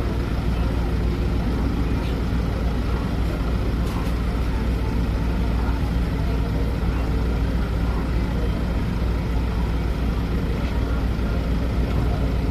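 A large engine running steadily: a continuous low drone that does not change.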